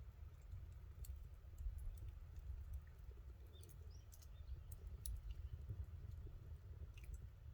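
Campfire of burning wood crackling, with irregular sharp pops and snaps over a low, steady rumble.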